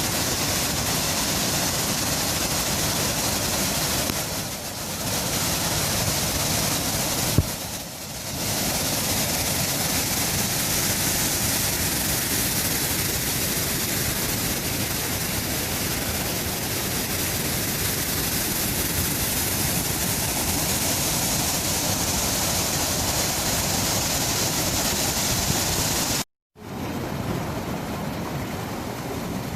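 Waterfall rushing: a loud, steady noise of falling water. It drops out for a moment near the end and comes back a little quieter.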